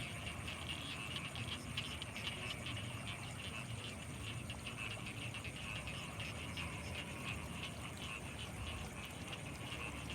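Night chorus of frogs by rice fields: many rapid, overlapping pulsing calls that run on without a break, over a low steady rumble and a thin high steady tone.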